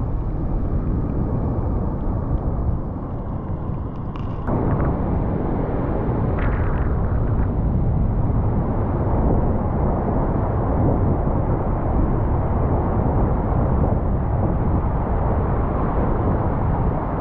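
Wind buffeting the camera microphone: a steady low rumble that gets louder about four and a half seconds in.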